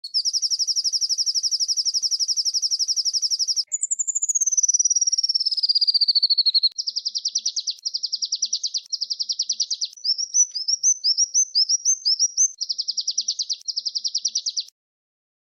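Small songbirds giving rapid, high, rolling trills, the 'tembakan ngerol' song used to train songbirds. A long buzzy trill gives way to one that falls in pitch, then a run of short trills about one a second and quick rising chips. It cuts off a little before the end.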